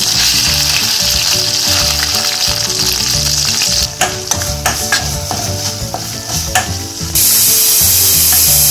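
Shallots, curry leaves and ginger-garlic paste sizzling in hot coconut oil in a stainless steel pan, stirred with a metal spoon that clicks against the pan several times in the middle. The sizzle gets louder about seven seconds in.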